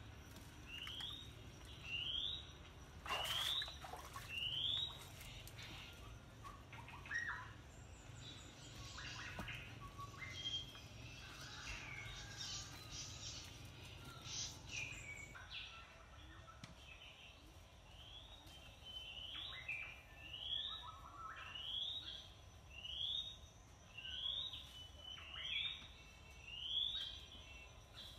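Birds calling outdoors, one repeating a short rising chirp about once a second, with other varied calls in between. A low rumble runs under the calls and stops about halfway through.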